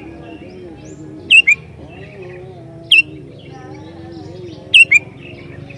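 Sooty-headed bulbul (kutilang) calling: loud, sharp, short notes that drop in pitch. They come three times, as a double note, a single, then another double.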